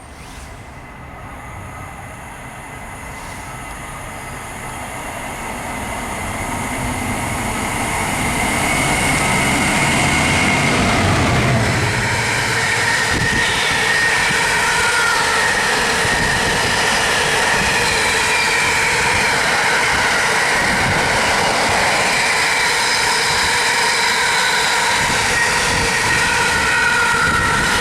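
A train approaching, growing louder over about ten seconds. It then runs past at a steady loud level, with several high, wavering tones over the rumble.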